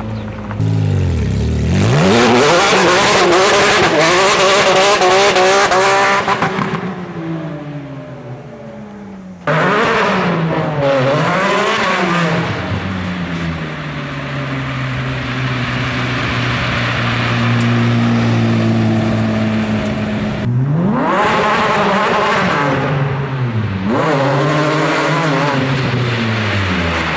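Porsche 997 GT3 RS flat-six engine through a straight-pipe exhaust, revving hard to high rpm and falling back several times, with a steadier stretch in the middle.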